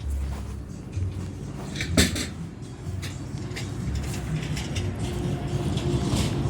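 A vehicle engine running with a low, steady rumble that grows louder toward the end, with a sharp knock about two seconds in and a few lighter clicks.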